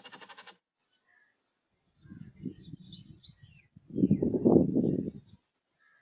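Small birds chirping in quick, high notes, opening with a short buzzy rattle. A louder low rumbling noise without clear pitch builds about two seconds in, is strongest around four to five seconds, and stops.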